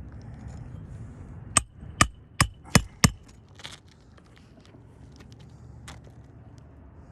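Five hammer blows in quick succession on a roofing snake, driving a 1.25-inch roofing nail through an asphalt shingle into the roof decking. A few faint clicks follow.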